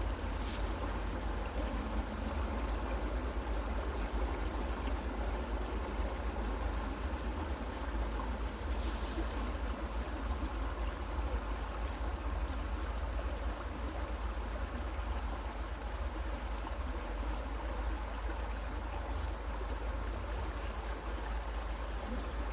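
A creek's water flowing steadily over stones, with a low rumble underneath.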